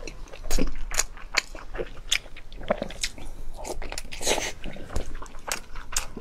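A person biting into and chewing a soft, springy egg sausage close to the microphone, with many short mouth clicks and smacks.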